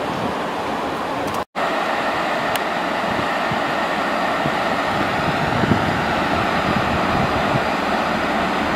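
Class 166 diesel multiple unit running slowly into a station platform, its underfloor diesel engines rumbling, with wind buffeting the microphone. The sound drops out for an instant about a second and a half in.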